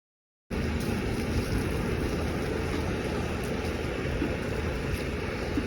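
Steady rumbling engine and road noise of a moving bus, starting abruptly about half a second in.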